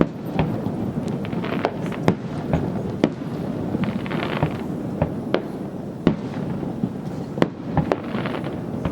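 Fireworks display: a dozen or so sharp aerial shell bursts at an uneven pace over a continuous rumble of echoing booms, with two stretches of hissing crackle, about four seconds in and near the end.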